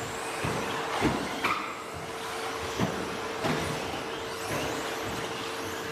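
Electric RC stadium trucks with 13.5-turn brushless motors racing on a dirt track: motor whines rising and falling as they accelerate and brake, with several sharp knocks and thumps over a steady hum.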